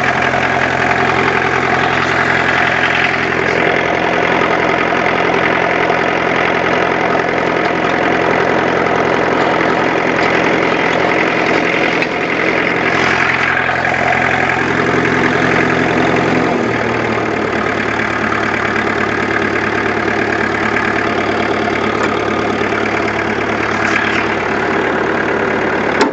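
International Harvester B414 tractor's diesel engine running steadily just after a cold start with the starting heater. About two-thirds of the way through, the engine speed drops and it settles to a lower, steady note.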